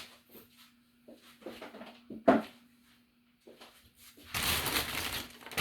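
Small handling noises from parts of a figurine being worked on by hand: faint taps, one sharp click a little over two seconds in, and a rustling noise near the end, over a faint steady hum.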